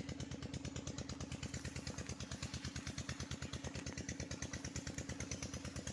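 Diesel engine of a village tubewell running steadily, its exhaust beating in a fast, even chugging rhythm.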